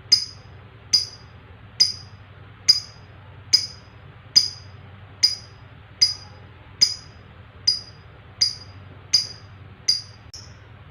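Lovebird giving short, sharp, high-pitched single chirps, evenly spaced a little under a second apart.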